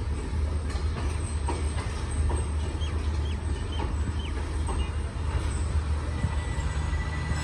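Steady low rumble of a passenger train idling while it stands at the platform, with faint scattered clicks and a few short high chirps about three seconds in.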